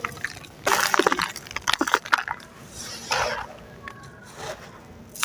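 Gritty sand-cement crumbling in the hands: a run of crunching and crackling lasting about a second and a half, then a shorter crunch about three seconds in.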